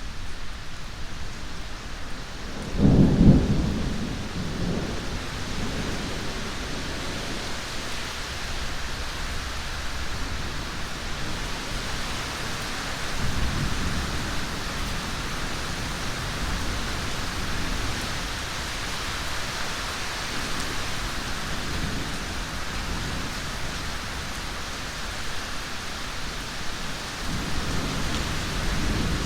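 Steady heavy rain with rolling thunder: a loud thunderclap about three seconds in that rumbles away over several seconds, then fainter rumbles midway and near the end.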